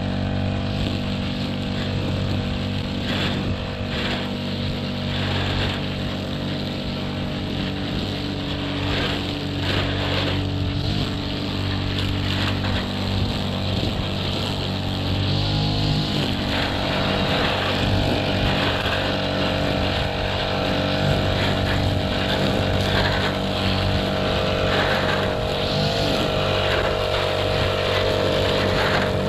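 Petrol strimmer engine running steadily at cutting speed while trimming grass, its note wavering briefly about halfway through and again near the end.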